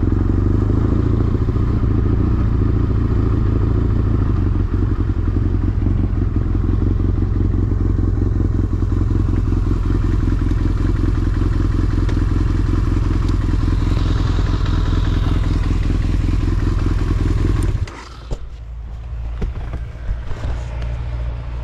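BMW F800R motorcycle's parallel-twin engine running steadily with an even pulsing beat, then cutting off abruptly about eighteen seconds in. A lower rumble with a few knocks follows.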